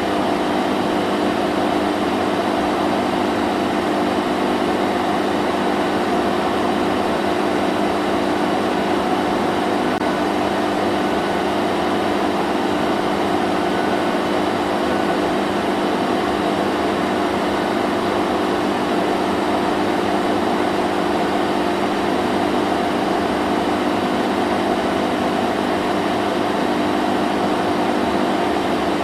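Vacuum cleaner running steadily: an even motor hum with a whooshing rush of air that does not change.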